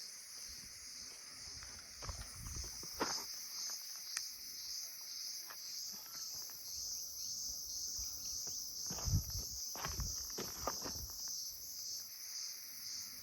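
A steady high-pitched chorus of insects shrilling without pause, with scattered footsteps crunching and scuffing on a dirt trail. The footsteps are loudest about nine to ten seconds in.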